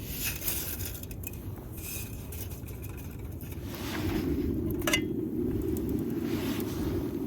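Light clinks and scrapes of camp cookware or utensils, over a steady low rumble that grows louder about four seconds in.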